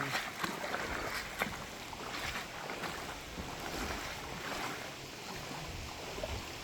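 Shallow river water running over rocks, with light splashing and sloshing as people wade through it. A few sharp knocks or clicks break through the steady water noise.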